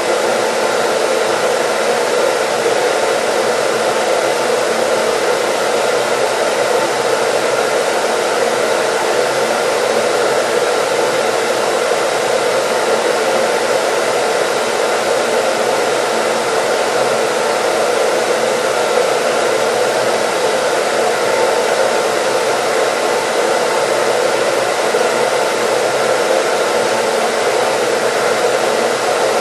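A hair dryer running steadily, giving an even rushing noise with faint steady tones in it.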